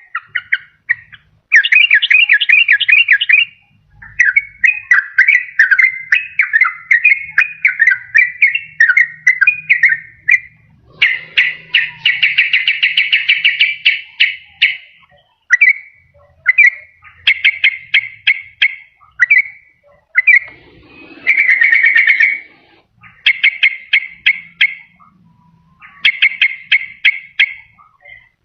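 Sooty-headed bulbul (trucukan) song played as a lure call: quick, rapid chattering and bubbling phrases in bouts of a second or two, separated by short pauses.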